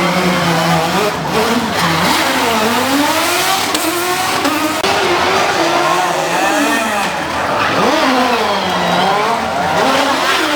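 Rally car engine revving hard under load, its pitch climbing and dropping several times as the car is driven sideways through the stage.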